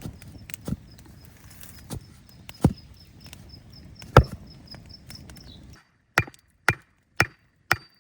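Wood being chopped: a few irregular blows over a steady outdoor background with a high, rapid chirping. Then the background cuts off suddenly and chops follow evenly, about two a second.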